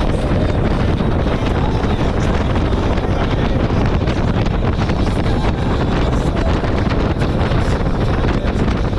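Steady, heavy wind buffeting on the microphone, mixed with the running of a jet ski moving over the water.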